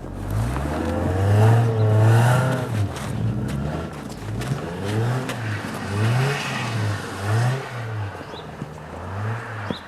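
Car engine revving up and down in short repeated surges, roughly one to two a second.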